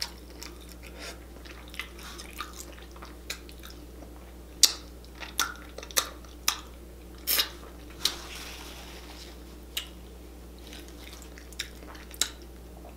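A person chewing and smacking their lips while eating saucy seafood-boil food with the fingers: a dozen or so sharp, wet smacks and clicks come at irregular moments through the chewing.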